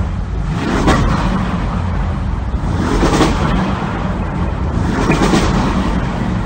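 Audi RS7's twin-turbo V8 revved while standing still, heard from inside the cabin: three rev blips about two seconds apart over a steady low rumble, the engine climbing to around 4,000–5,000 rpm.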